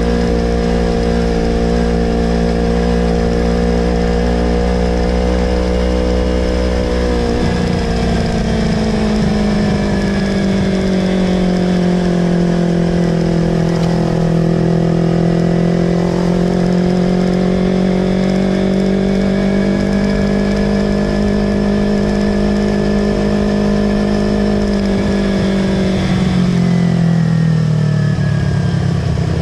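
Yamaha R25's 250 cc parallel-twin engine running through a Villan Pro 2 aftermarket exhaust, held at steady raised revs. The pitch shifts slightly about seven seconds in, sags and recovers midway, then drops as the revs fall away near the end.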